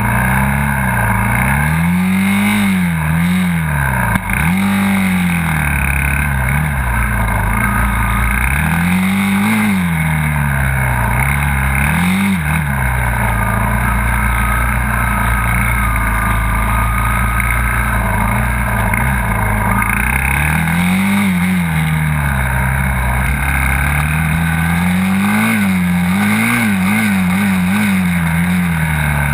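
Dirt bike engine running and being revved: its pitch climbs and drops back again several times, with a run of quick throttle blips near the end.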